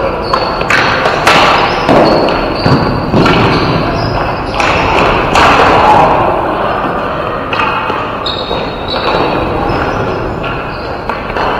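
Ball hockey game play: repeated thuds and clacks as sticks, the ball and players hit each other and the boards, with short high squeaks mixed in.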